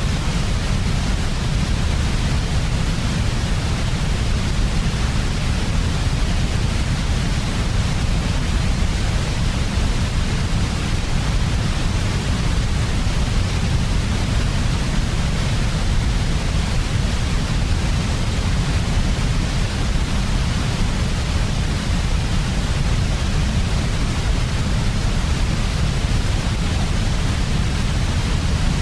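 Steady, unchanging sleep noise, strongest in a deep low rumble, with a softer even hiss above it.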